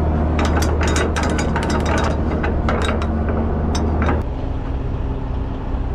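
Heavy diesel engine idling with a rapid run of sharp clicks and knocks over the first four seconds; about four seconds in the clicking stops and the engine note drops.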